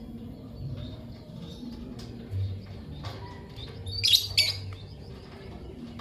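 Lovebirds chirping: faint scattered chirps, with two sharp, loud chirps in quick succession about four seconds in.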